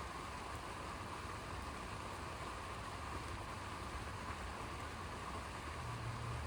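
Steady rain falling during a thunderstorm, an even hiss, with a low rumble underneath that swells slightly near the end.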